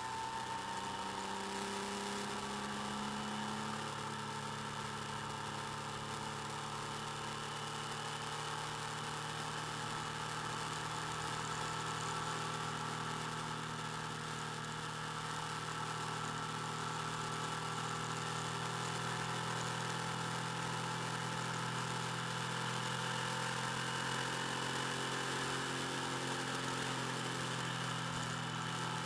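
Motorcycle engine running steadily, picked up by the bike-mounted camera's microphone; its note falls a little in the first few seconds, then holds even.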